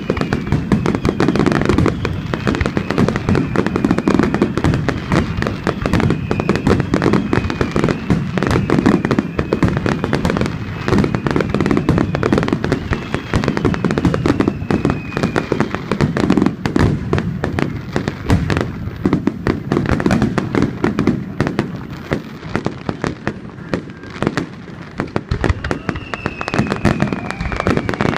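A dense barrage of aerial fireworks: rapid, overlapping bursts and crackling, with thin falling whistles recurring throughout.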